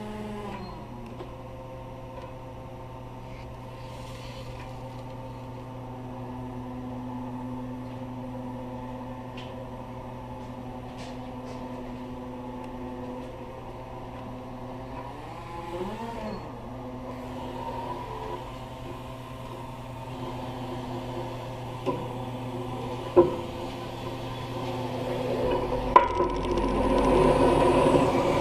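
Lift truck engine running steadily, its pitch dipping and recovering a second in and again about halfway. A few sharp knocks come in the last third, and the sound grows louder and rougher near the end.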